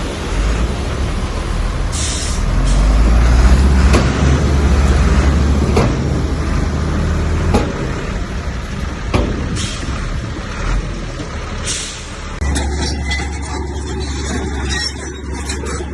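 Heavy diesel earthmoving machinery running hard, a deep engine rumble throughout, with several sharp knocks and a few short bursts of hiss.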